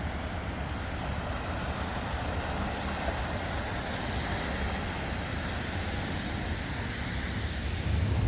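Steady outdoor street noise in a downtown snowstorm: passing traffic and a low rumble of wind on the microphone, with no distinct events.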